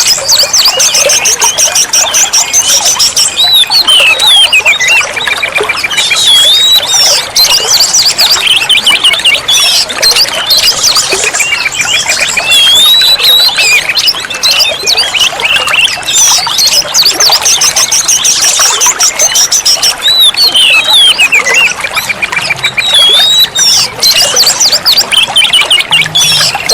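Oriental magpie-robin (kacer) singing without pause: a fast, varied stream of whistled slurs, rising and falling glides and rapid trills.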